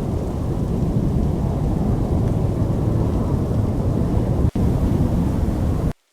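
Loud, steady low rumble of storm wind. It drops out for an instant about four and a half seconds in and cuts off abruptly just before the end.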